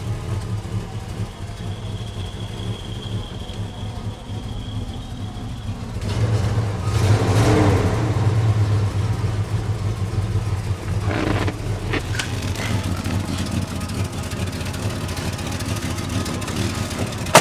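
A motor vehicle engine running at a steady idle, with a low hum throughout. About six seconds in it swells louder for a few seconds, its pitch rising and then falling.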